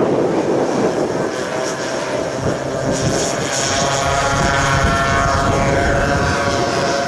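Propeller engine of a giant-scale radio-controlled model airplane flying, its pitch falling in the middle as it passes by.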